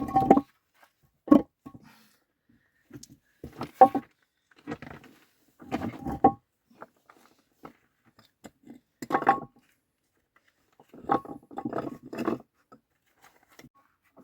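Irregular knocks, clatters and scrapes of hard objects being handled, coming in short clusters a second or a few seconds apart, some with a brief ringing tone.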